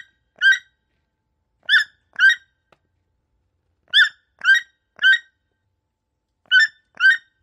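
Toucan calling: a run of short, pitched calls in groups of two or three, about half a second apart, with pauses of a second or so between groups.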